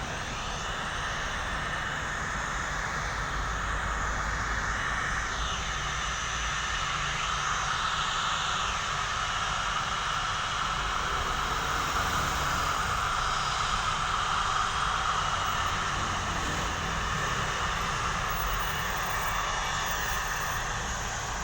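A passenger airliner's engines running close by, a steady, dense rumble and roar that swells slowly to its loudest a little past the middle and eases slightly near the end.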